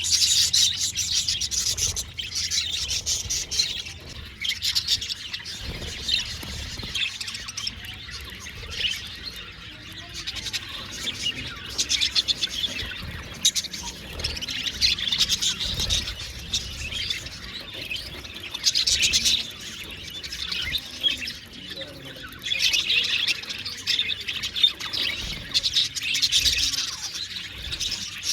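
A flock of budgerigars chattering and chirping, with rapid warbling bursts that come and go every few seconds.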